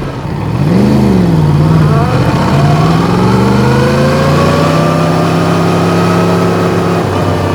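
Yamaha MT-10's crossplane inline-four engine with an Akrapovic exhaust, loud. It gives a short throttle blip that rises and falls about a second in, then runs steadily at low revs while rolling slowly, the revs creeping up a little before easing off near the end.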